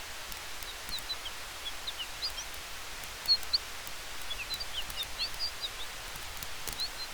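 Campfire crackling, with scattered sharp pops, the loudest a little past the middle, over a steady hiss of wind in the trees. Many short high chirps sound throughout.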